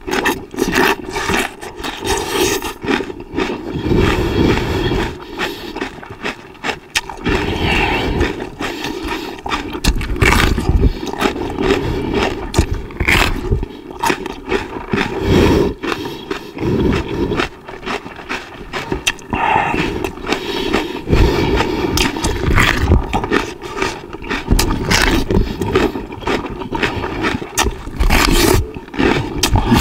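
A person chewing raw red bell pepper close to a microphone: continuous loud crunching and munching, with many sharp crisp bites.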